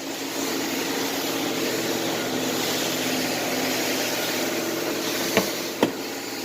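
Oldsmobile Cutlass Ciera engine idling steadily, with two short sharp clicks near the end.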